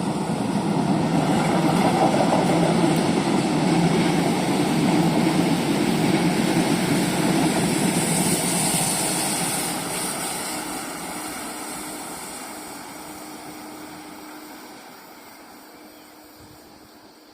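Train passing close by, with a rushing, rumbling noise that holds loud for about ten seconds, then fades steadily as it moves away.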